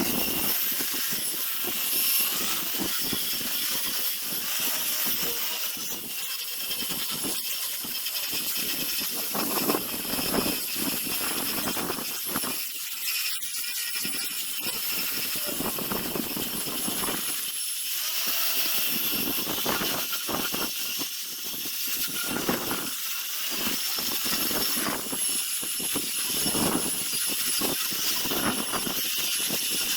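Power sanding tool grinding zelkova root wood, with a steady high motor whine over a hiss that swells and fades irregularly as the abrasive bites into the wood.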